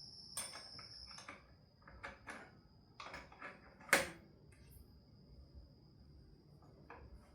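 Scattered clicks and clinks of metal hand tools being handled, with one sharper knock about four seconds in. A faint steady high whine runs underneath.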